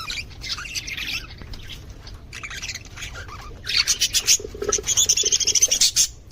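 A colony of budgerigars chattering and squawking: many short, quick calls overlap, growing busier and louder about four seconds in.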